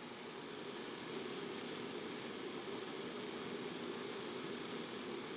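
PM Research horizontal model boiler hissing steadily with escaping steam over a low, even rushing. The steam appears to be escaping from a small leak at a fitting.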